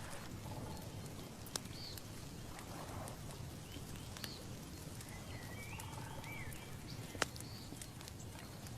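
Outdoor nature ambience: a steady low background hiss with scattered short bird chirps. A few sharp clicks, the loudest one about seven seconds in.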